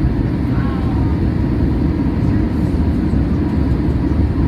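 Steady low rumble inside the cabin of a Boeing 737-800 airliner, with no rise or fall.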